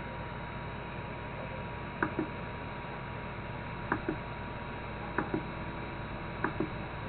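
3DTouch (BLTouch clone) probe cycling through its self-test: the pin's solenoid clicks in quick pairs as it deploys and retracts, four pairs every one and a half to two seconds, over a steady electrical hum. It runs the test again and again without going into error mode.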